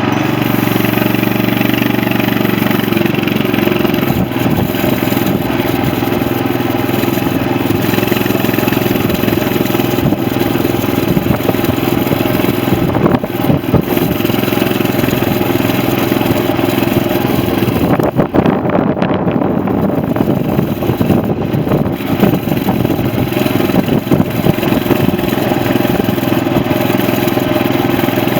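Coleman CT200U mini bike's 6.5 hp Honda-clone single-cylinder engine running steadily while the bike is ridden.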